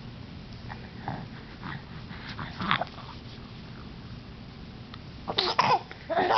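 A new, rough throaty vocal noise: a few soft snuffly sounds, then two loud, short, coughing calls near the end.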